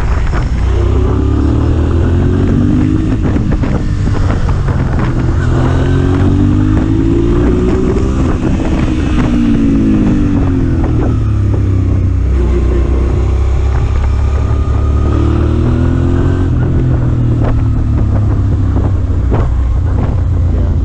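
Motorcycle engine running at speed with wind rushing over the microphone. The engine pitch repeatedly climbs as it accelerates, then drops back at each gear change.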